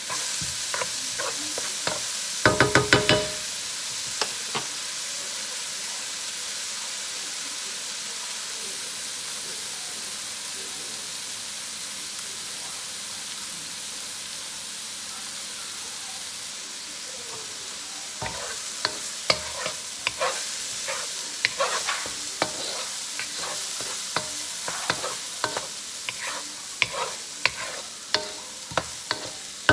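Diced onion and minced garlic sizzling steadily in oil in a hot wok, with a wooden spatula knocking and scraping against the pan: a quick run of taps about three seconds in, then scattered knocks through the last ten seconds or so.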